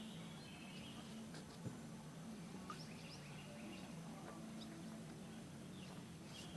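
Faint outdoor ambience: a low steady hum with scattered faint bird chirps and a couple of small clicks.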